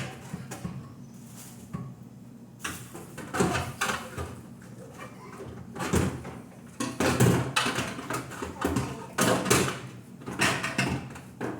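A series of short knocks and clatters of objects being handled, like doors or drawers being moved and things set down, over a low steady hum.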